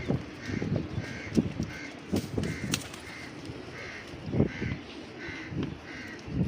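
A bird calling over and over in short calls, about two a second, with irregular dull low thuds in between.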